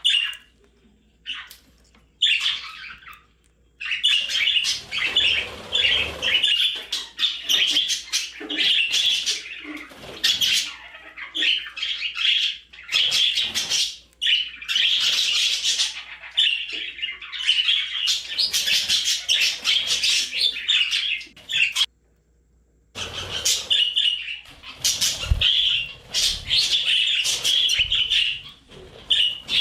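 Budgerigars chattering and warbling: a few separate chirps at first, then fast, continuous chirping from about four seconds in, with a brief silence about three-quarters of the way through.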